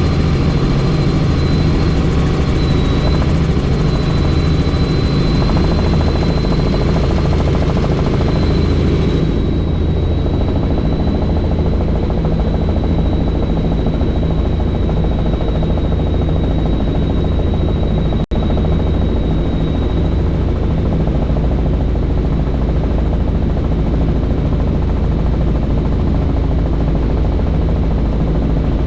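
Helicopter in flight heard from inside the doors-off cabin: a loud, steady rotor and engine noise with a pulsing beat and a thin high whine that fades out about two-thirds of the way through. The sound cuts out for an instant a little past halfway.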